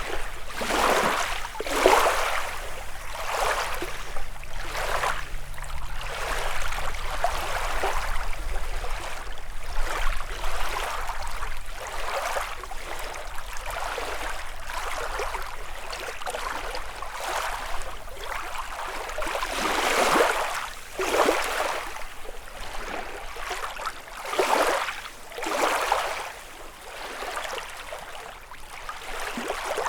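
Small lake waves lapping and splashing against the shore, one small break about every second, irregular in strength.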